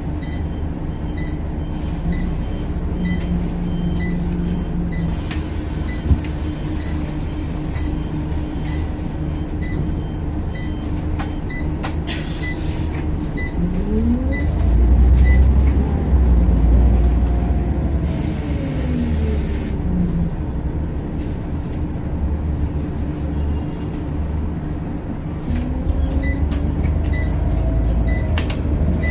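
Scania OmniCity bus heard from inside: the engine runs steadily while a relay ticks about one and a half times a second, like an indicator. About halfway through, the bus pulls away and its engine and driveline whine rise and fall in pitch as it accelerates and changes gear. The same rise comes again near the end.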